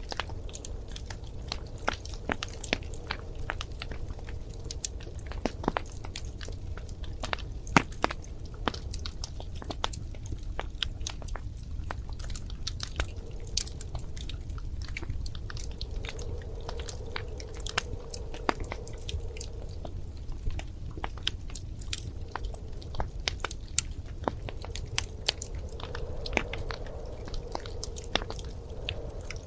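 Wood fire crackling in a fireplace: irregular sharp pops and snaps over a low steady rumble, with a faint whistle from the burning wood coming and going.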